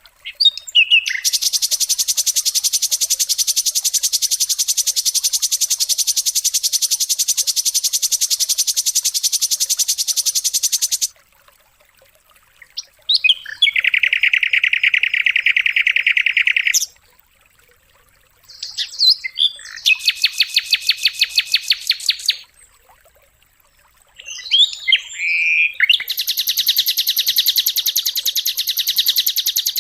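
Songbird song: four long, very fast trills of rapidly repeated high notes with short quiet gaps between them, each trill led in by a few quick sweeping chirps.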